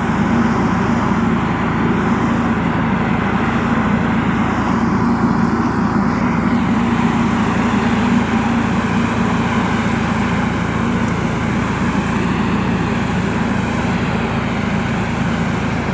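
Hattat B3065 tractor engine running steadily, with a constant hiss over the engine note.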